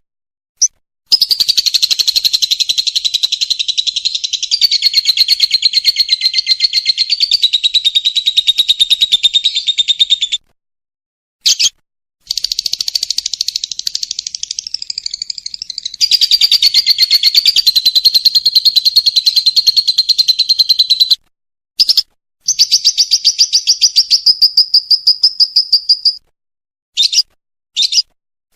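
Lovebird singing its long, rapid chattering trill (the 'ngekek' song): three long runs of quickly repeated high notes lasting about nine, nine and four seconds, with single short chirps in the gaps and several near the end.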